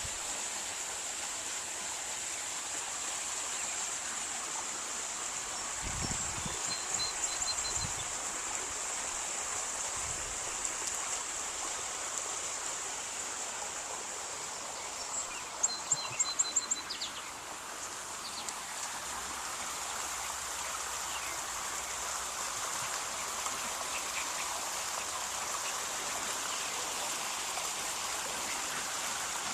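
Steady outdoor background noise with a constant high hiss. A few brief runs of high ticks or chirps come through, and a short cluster of sharp clicks about halfway through.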